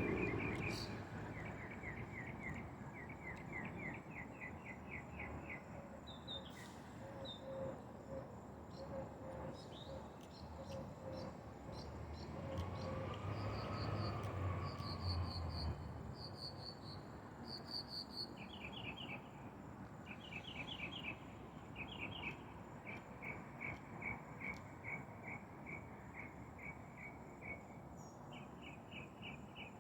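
Insects chirping in long runs of short, evenly spaced, high-pitched pulses, with several series overlapping. A low rumble swells and fades away in the middle.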